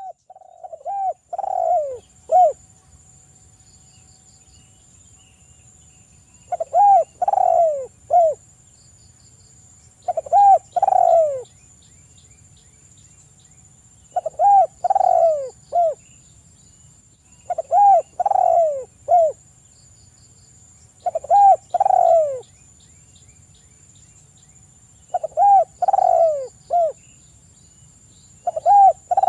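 Spotted dove (tekukur) cooing: a phrase of several falling coos, repeated about every three and a half seconds.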